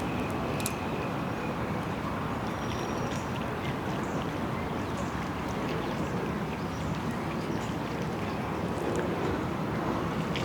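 Steady outdoor park ambience: a constant rushing wash of distant city traffic and wind, with faint, scattered high bird calls.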